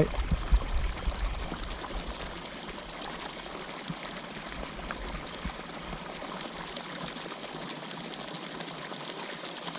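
Water pouring and trickling steadily into a pond from an inflow where fresh water is pumped in after rain. A few low thumps sound in the first second.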